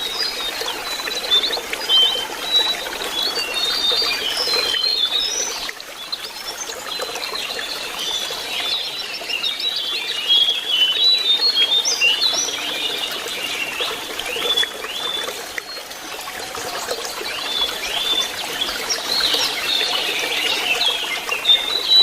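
Lesser shortwing (jongkangan) singing a long run of quick, high chirps and short whistles, over the steady sound of trickling water.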